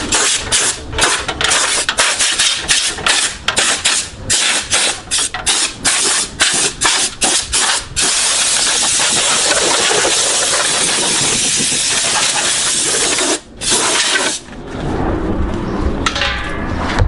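Aerosol spray can of clear coat spraying: a quick run of short hissing bursts, about two to three a second, then one long steady spray. The hiss breaks off briefly, comes back for a short burst, and dies down near the end.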